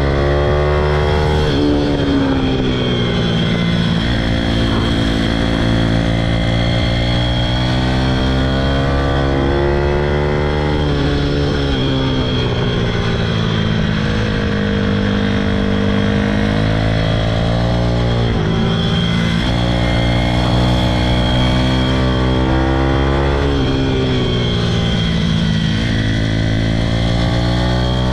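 Pitom pit bike's single-cylinder four-stroke engine running hard on a track lap, its pitch climbing as it revs out and dropping back several times as the rider shifts and slows for corners.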